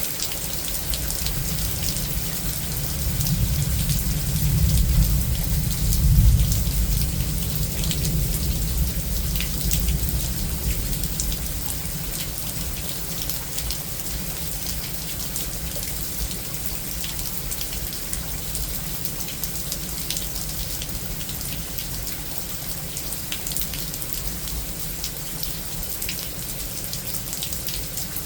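Thunderstorm rain falling steadily, with many sharp drop hits. A low rumble of thunder swells a few seconds in, peaks twice, and dies away about ten seconds in.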